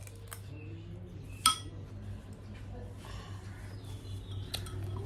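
A metal spoon clinks sharply against a dish once, about a second and a half in, with a few lighter taps of cutlery before and after, over a steady low hum.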